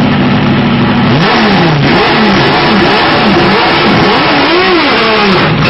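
Competition car's engine heard from inside the cabin, idling steadily and then revved up and down repeatedly from about a second in.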